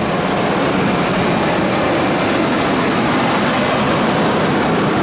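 The V8 engine of a 2003 Ford Expedition running steadily just after starting. It is the sign that the crank-no-start fault is cured: the fuse box's integrated fuel pump relay now works and powers the fuel pump.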